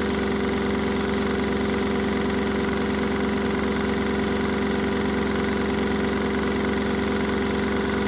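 Washing machine running with a steady, unchanging mechanical hum.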